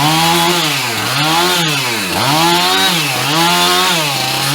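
Gas chainsaw cutting through tree branches, its engine pitch dipping as the chain bites and climbing back, about once a second.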